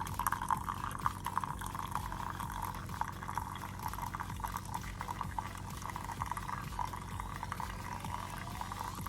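Keurig K-Supreme Plus single-serve coffee maker brewing: hot coffee streaming and splattering steadily into the cup over a steady low hum from the brewer.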